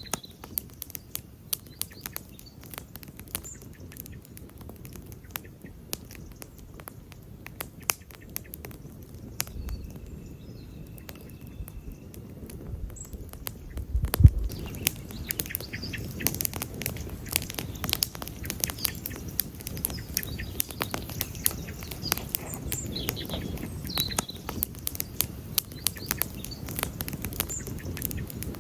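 Wood campfire crackling, with frequent sharp pops and snaps over the low rush of the flames. A louder low thump comes about halfway through, after which the fire sounds fuller.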